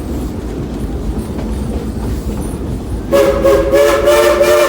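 A steam locomotive running along the track with a low rumble. About three seconds in, its chime whistle starts to blow, a loud chord of several notes that sounds in short blasts.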